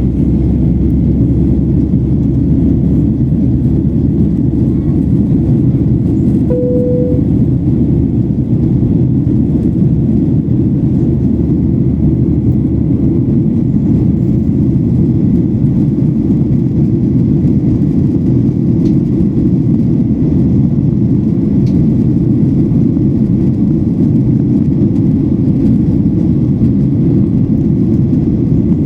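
Steady cabin noise of a Boeing 737-800 in flight: an even, deep rumble of engines and airflow. A short single tone sounds briefly about seven seconds in.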